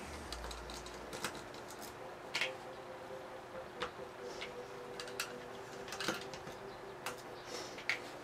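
Small sharp clicks and taps at irregular intervals, about one a second, from a robot-sumo robot's parts and tools being handled during disassembly, over a faint steady hum.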